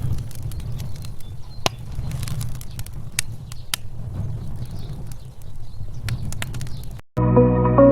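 A steady low rumble with scattered sharp clicks and pops; soft music with mallet-percussion notes cuts in about seven seconds in.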